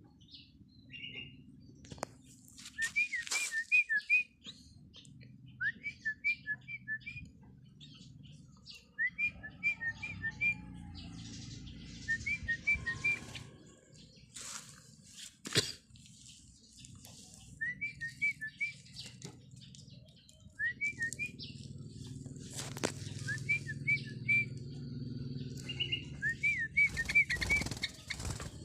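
Sooty-headed bulbul calling: about eight short, bubbly phrases of three to five quick notes, a few seconds apart. Brief rustling noises come in between the phrases.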